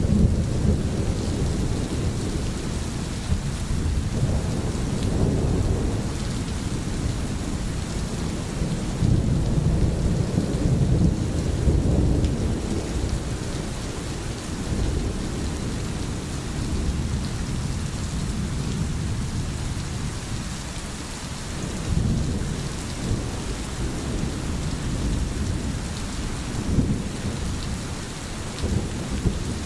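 Thunderstorm: steady rain hissing throughout, with low rolling thunder underneath that swells and fades several times, most strongly around halfway through.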